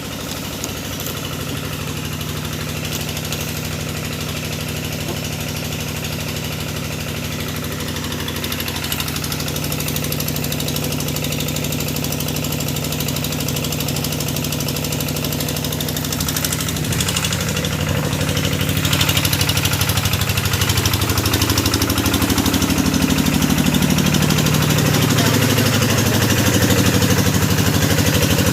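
Engine of a hydraulic deep-well drilling machine running steadily. In the second half its pitch shifts and the sound grows louder as the engine takes up load.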